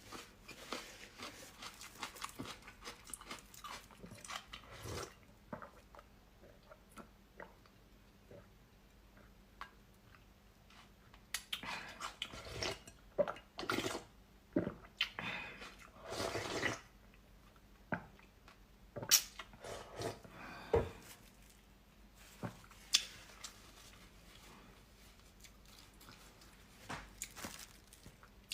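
Close-miked person eating blood sausage and glass noodles: wet chewing and mouth smacks with small clicks, and a few louder, longer noisy bursts near the middle.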